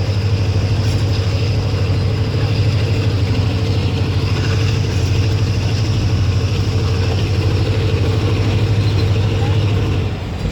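Express train running at speed, a steady low drone from the diesel locomotive and the moving coaches, which drops suddenly about ten seconds in.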